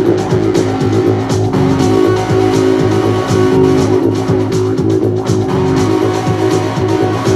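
Live busker music: a guitar strummed in a steady rhythm over a continuous low didgeridoo drone, with no singing.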